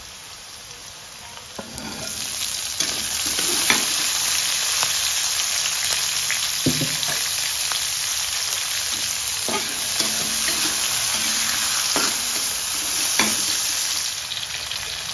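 Vegetables sizzling in hot oil in a metal wok, stirred with a metal spatula that scrapes the pan now and then. About two seconds in the sizzle grows much louder as sliced chillies, tomato and bay leaves go into the oil with the fried shallot and garlic.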